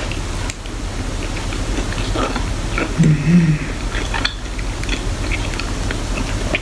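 A person eating a breakfast of eggs and bacon: chewing, with short clinks of cutlery on a plate, and a brief hummed "mmm" about three seconds in.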